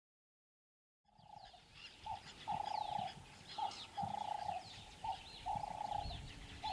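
Birds calling. A low two-note coo, a short note then a longer one, repeats about every second and a half over quick high chirps from smaller birds. The sound fades in about a second in.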